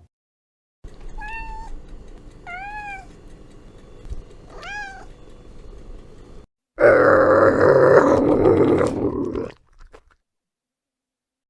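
Cat meowing three times in short calls that rise and fall in pitch. Then comes a louder, harsh, noisy sound lasting about two and a half seconds, which cuts off abruptly.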